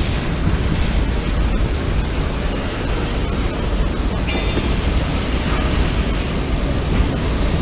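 CSX mixed freight train rolling past, a steady rumble of railcar wheels on the track, with a brief high squeal about four seconds in.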